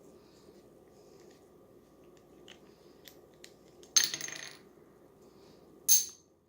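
Two sharp, hard clinks about two seconds apart, the first ringing briefly. They come from small metal or glass items knocking together while a model Stirling engine's alcohol burner is being refilled.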